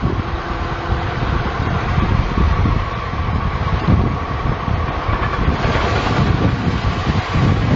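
A large machine's engine running steadily: a loud, deep rumble with a faint steady whine above it.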